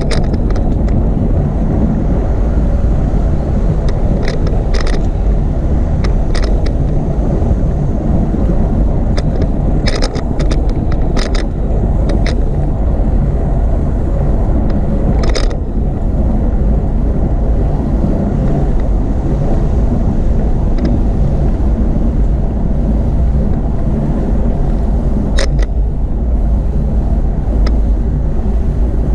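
Riding a bicycle along a paved path: a steady low rumble of wind and rolling noise on the ride-mounted microphone, broken by scattered short clicks and rattles, clustered a few seconds in, around a third of the way through, and near the end.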